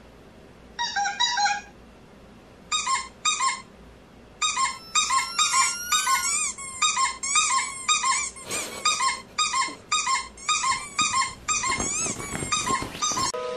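Recorded high-pitched squeaks, in pairs and quick runs, some gliding up and down, played through a smartphone speaker as a sound meant to attract a dog. In the second half, bedding rustles as the dog moves.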